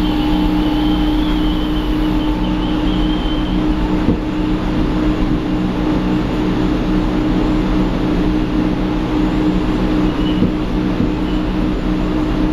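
Berlin S-Bahn class 480 electric train heard from inside its passenger car while running: steady running noise with a strong, unchanging drone that the uploader finds strange. Two faint single knocks come through, about four and ten seconds in.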